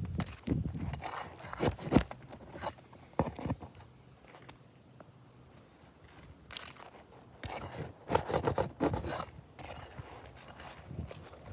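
Roof shingles being lifted and scraped during a repairability test: irregular bursts of scraping and crackling with sharp clicks, loudest about two seconds in and again around eight to nine seconds in.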